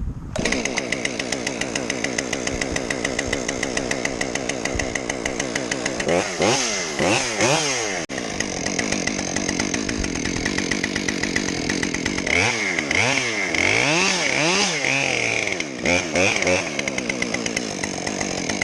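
Warm two-stroke chainsaw, hot-started, catching right at the start and running steadily, then revving up and down repeatedly twice, about six seconds in and again from about twelve seconds in, as it cuts through a log.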